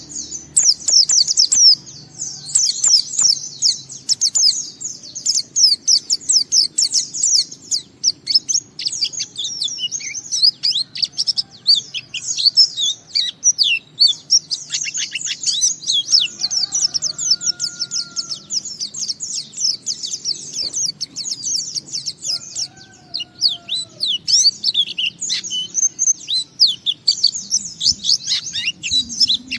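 Pleci (white-eye) singing a long, very rapid, high-pitched twittering song, the run-on 'ngalas' song, broken only by a few short pauses.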